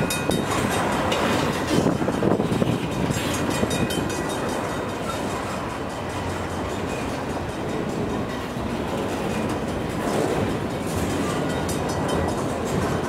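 Freight cars of a CN mixed freight train rolling past, their steel wheels giving a steady rumble with irregular clacks on the rails. Some wind noise on the microphone.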